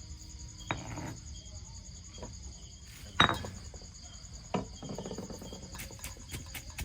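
Crickets chirring steadily in the background, with a few sharp knocks and, near the end, a run of quick clicks or taps.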